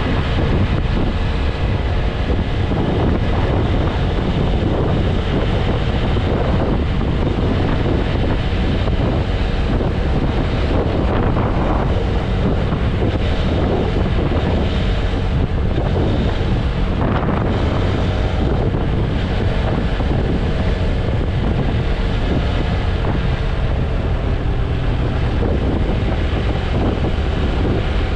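Wind buffeting the microphone of a motorcycle at expressway speed, steady and loud, over the running of the TVS Apache RTR 160 4V's single-cylinder engine.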